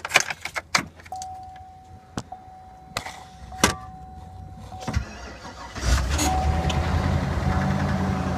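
Clicks and knocks for the first few seconds with a steady electronic tone, then, about six seconds in, the 2011 Chevy 3500HD's 6.0-litre gas V8 cranks briefly and starts right up from a cold soak at about −25 °C, settling into a steady cold idle.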